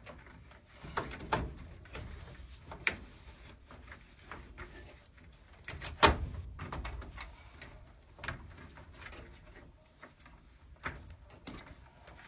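Scattered clicks and knocks of plastic being handled as a water hose is worked onto the fitting of a Honeywell furnace humidifier, with the loudest knock about six seconds in.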